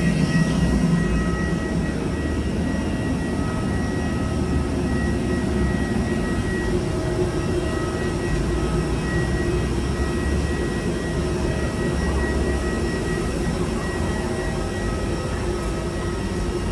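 Jet airliner noise: a steady rumble with several steady high whines, unbroken throughout.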